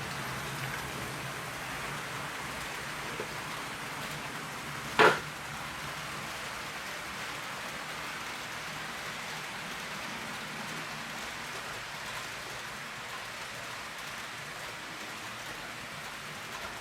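HO scale model freight train rolling by, its steel wheels running on the rails in a steady rushing hiss, with one sharp clack about five seconds in.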